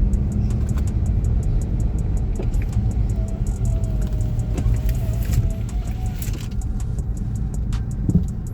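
Car running with a steady low rumble, heard from inside the cabin as it drives off.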